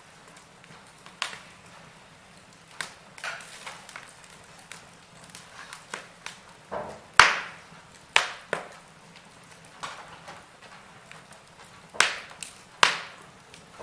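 Wood fire in a fireplace crackling, with irregular sharp pops; the loudest pop comes about seven seconds in, and two more strong ones come near the end.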